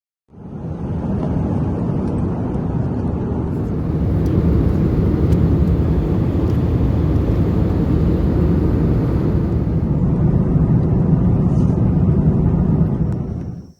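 Loud, steady rumble of a vehicle in motion, growing a little louder about four seconds in and cutting off suddenly at the end.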